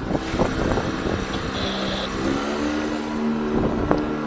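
Yamaha T9.9 four-stroke kicker outboard running steadily, its pitch rising a little about two seconds in, with wind on the microphone and a few short knocks.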